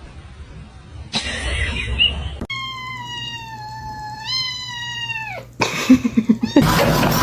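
A domestic cat's single long meow, about three seconds, slowly sliding down in pitch, stepping up partway through and dropping away at the end. Short stretches of other noise come before and after it.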